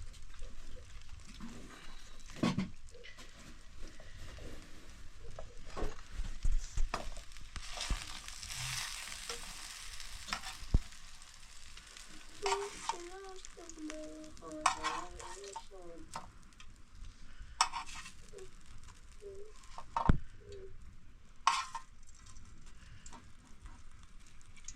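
Cooking sounds: a spoon stirring and knocking against a pot, with scattered sharp clinks and a stretch of sizzling hiss near the middle. A brief wavering pitched sound comes about halfway through.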